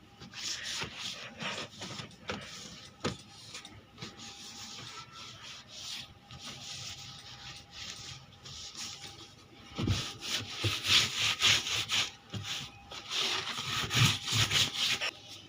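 Household cleaning: repeated rubbing and brushing strokes across a surface, scattered at first, then quick and loud from about two-thirds of the way in.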